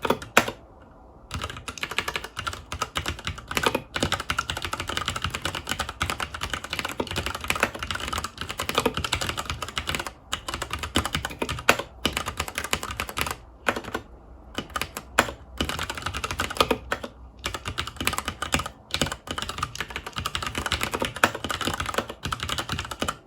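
Continuous fast typing on a FILCO Majestouch 2 Hakua tenkeyless mechanical keyboard with Cherry MX Brown switches, a dense run of key clicks and clacks broken by a few brief pauses.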